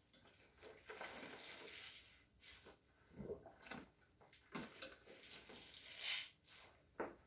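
Wet, soapy cleaning being worked by hand: irregular squishing and swishing strokes, with a longer swish about a second in and another about six seconds in.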